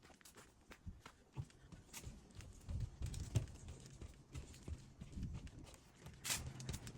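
Footsteps of a person walking along a path, a run of low thuds with scattered clicks and rustles.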